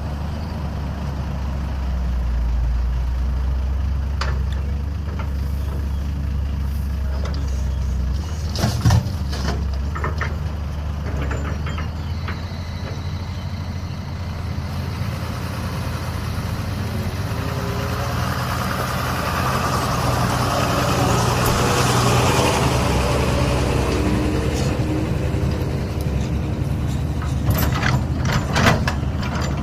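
A Caterpillar 320B excavator's diesel engine running with a steady low drone. A few sharp knocks come about nine seconds in and again near the end, and a rushing noise swells up and fades in the middle.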